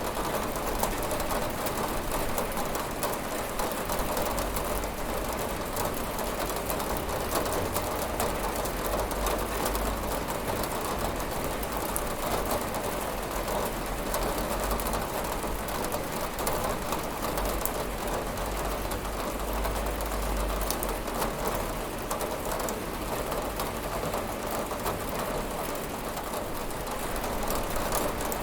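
Steady heavy rain falling on a window, a dense unbroken patter of drops with a low rumble underneath.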